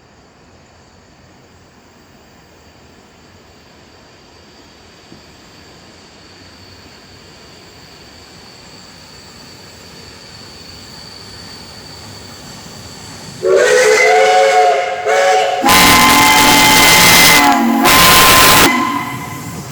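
A train drawing closer with a slowly rising hiss and rumble, then sounding a loud multi-note horn chord about two-thirds of the way in. It passes with loud noise and several more horn blasts near the end.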